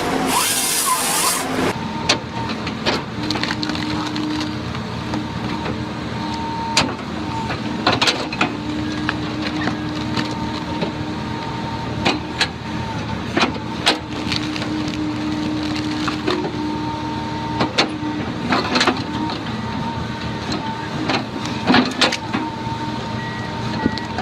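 A heavy machine's engine running steadily, with a whine that comes and goes and many irregular knocks and clanks throughout. A short burst of hissing comes right at the start.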